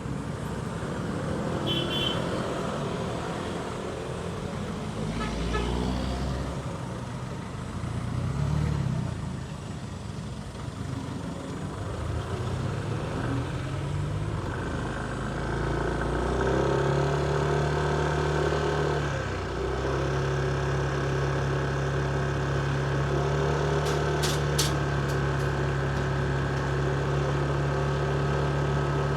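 Motorcycle engine in city traffic, its pitch rising and falling with the throttle through the first half, then settling into a steady idle for the rest. A few short, high-pitched clicks sound about three quarters of the way through.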